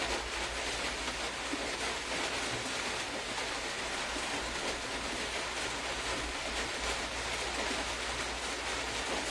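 Steady, even hiss of background noise with a low hum beneath it, unchanging throughout.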